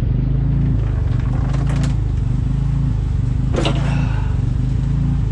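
Steady low mechanical hum, like a running engine or motor, with a few brief clatters, the sharpest about three and a half seconds in.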